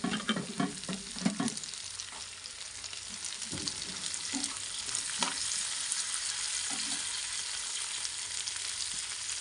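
Chopped carrots and green beans sizzling as they fry in hot oil in a kadai, with a steel spatula stirring and scraping against the pan. The stirring is busiest in the first second and a half and returns a few times after, and the sizzle grows a little louder after about three seconds.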